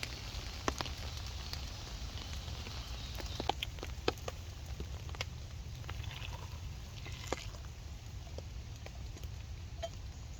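Steady rain falling, with scattered individual drops tapping sharply on a nearby surface.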